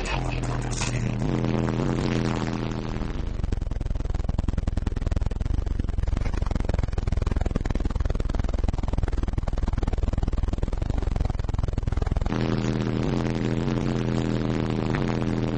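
Bass-heavy music played at extreme volume through a car audio system of four 18-inch Fi BTL subwoofers on Rockford Fosgate T4000.1bd amplifiers. A deep bass line steps from note to note, gives way about three seconds in to some nine seconds of heavy, distorted, rattling bass, and the stepping bass notes return about twelve seconds in.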